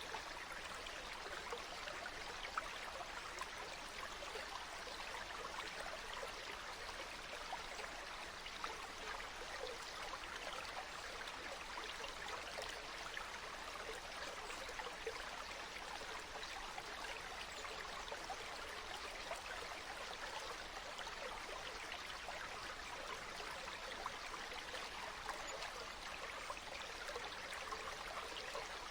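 Water running steadily over stones, a constant babble with many small splashes and trickles.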